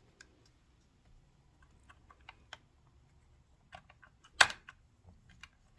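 Scattered light clicks and taps of small metal sewing-machine parts being handled and fitted, with one sharper click about four and a half seconds in.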